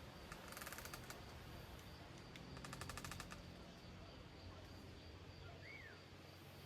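Faint bird calls outdoors: two quick rattling trills, the first about half a second in and the second around two and a half seconds in, then a single short chirp that rises and falls near the end.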